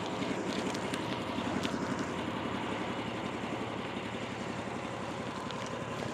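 Small engine idling steadily with an even, rapid low pulse.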